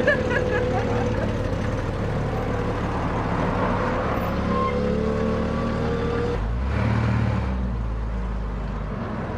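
Classic car engines running as the cars drive slowly past. The sound changes at about six and a half seconds to a deeper engine hum.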